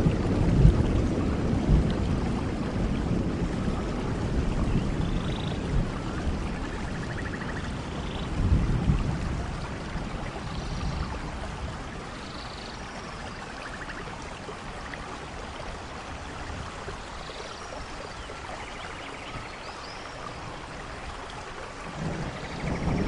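Steady rain falling on forest leaves and ground. Low thunder rumbles near the start and again about eight seconds in, fading away, then building once more near the end.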